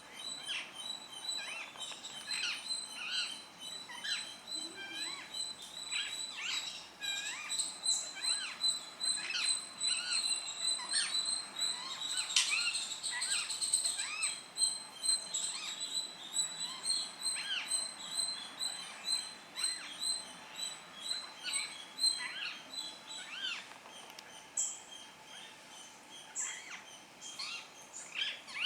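Many birds chirping and calling in short gliding notes, over a steady, fast-pulsing high trill; busiest around the middle, thinning out near the end.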